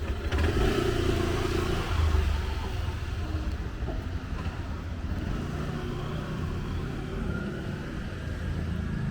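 City street traffic: passing vehicles with a steady low engine rumble.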